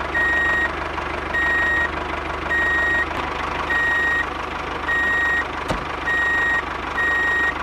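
Vehicle reversing alarm sounding a single high beep about once a second, seven beeps in all, over a steady running motor hum.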